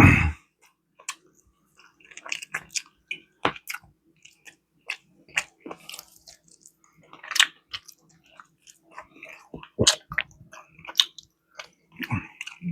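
Close-miked chewing and biting of barbecue chicken: irregular short smacks and clicks of a mouth eating. A loud thump at the very start.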